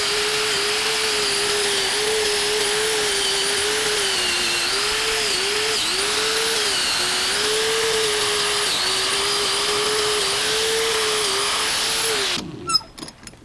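Electric power tool spinning a wire brush against the steel, its motor pitch dipping and recovering again and again as the brush bears on the work. The tool switches off about twelve seconds in, winding down, followed by a few clicks.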